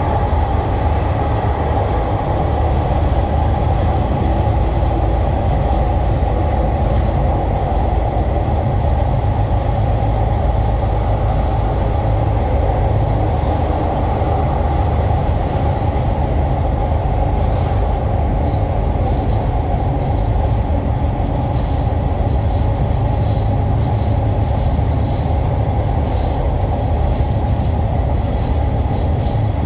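Passenger train running steadily along an elevated concrete viaduct, heard from on board: a continuous, even rumble of wheels on rail. Short, faint high squeals of the wheels come and go in the second half.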